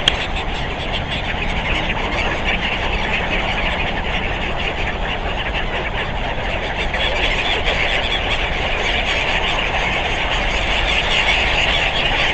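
Steady road traffic noise, with a dense high-pitched chatter of many short sounds layered above it.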